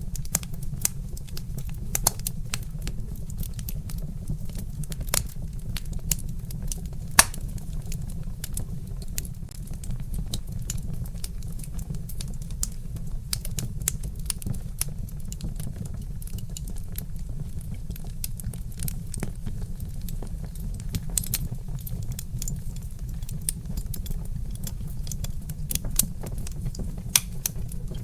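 Wood fire crackling: many small, irregular sharp pops and snaps over a steady low rumble, with one louder pop about seven seconds in.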